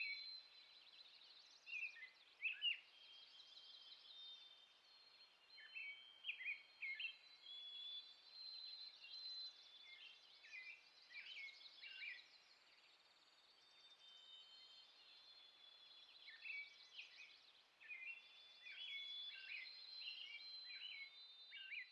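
Small birds chirping and calling, faint: short high notes in scattered clusters with the odd brief trill, over a soft steady hiss of ambient outdoor noise.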